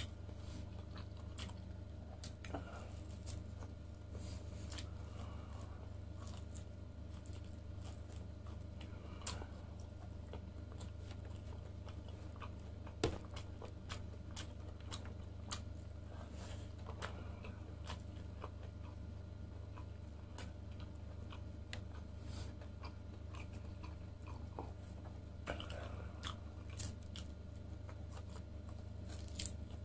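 Close-miked biting and chewing of grilled lamb chop meat pulled from the bone, with many short wet mouth clicks, one sharper about halfway through. A steady low hum sits underneath.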